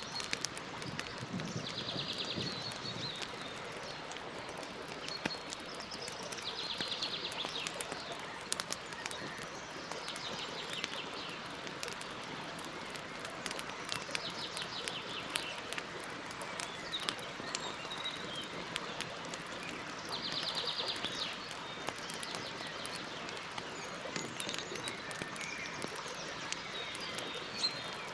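Campfire crackling, with frequent small pops over a steady hiss. A bird sings a short, rapid trill about five times in the background.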